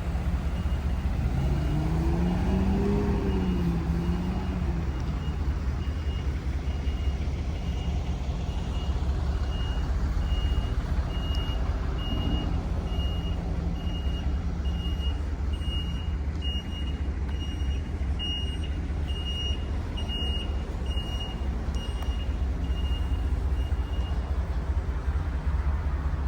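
Truck backup alarm beeping at a steady pace over a steady low engine rumble; the beeping stops near the end. A few seconds in, a lower tone rises and falls in pitch.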